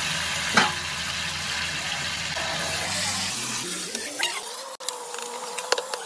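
Chopped boiled tomatoes sizzling in hot butter in a metal kadai while a steel spoon stirs them. The spoon knocks against the pan once about half a second in and clinks a few times near the end.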